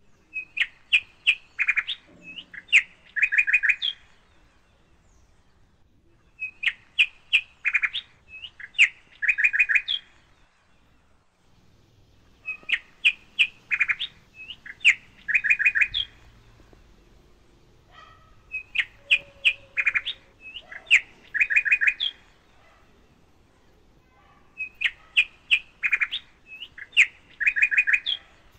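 Bird song: a phrase of sharp, high chirps ending in a quick trill, repeated five times about every six seconds.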